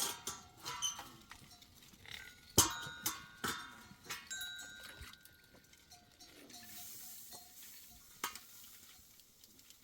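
A series of metallic clinks, each ringing briefly, the loudest about two and a half seconds in, then fewer and fainter.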